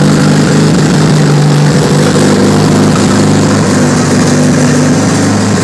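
Turbocharged Honda D-series four-cylinder idling steadily on its first start-up after a full build.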